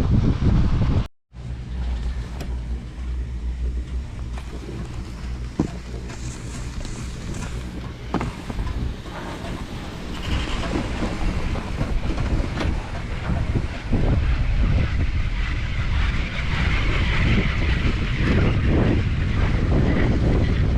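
Wind rushing over the microphone and skis hissing and scraping on snow during a downhill run, with a brief cut to silence about a second in; the hissing grows stronger in the second half.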